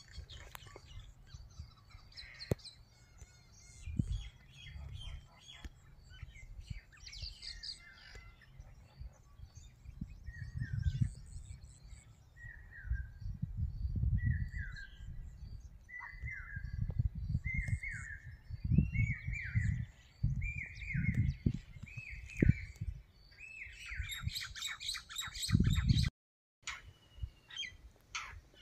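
Wild birds chirping and calling, with one bird repeating a short falling whistled note about once a second, each a little higher and louder, ending in a burst of busy chirping. Low rumbling thumps lie underneath.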